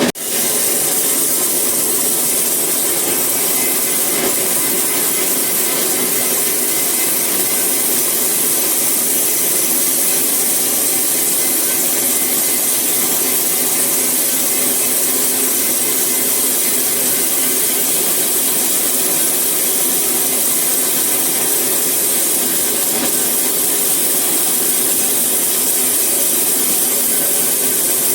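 Sawmill saw cutting through eucalyptus wood, a steady, unbroken sawing noise.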